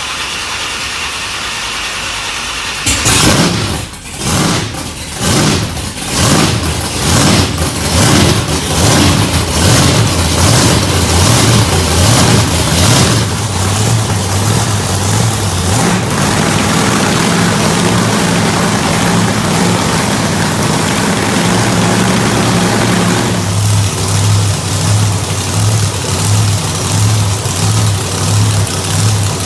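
Monster truck engine fires up about three seconds in, is blipped up and down roughly once a second for about ten seconds, then settles into a steady, deep idle.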